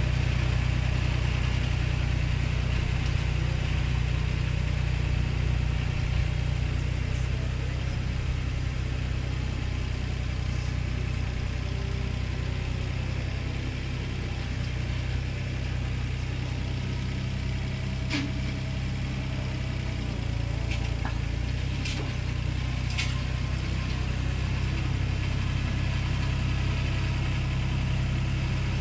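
Compact tractor engine running steadily at a working pace, with a few light knocks about two-thirds of the way through.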